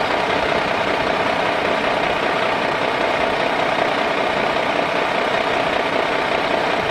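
A motor running steadily at an even pitch.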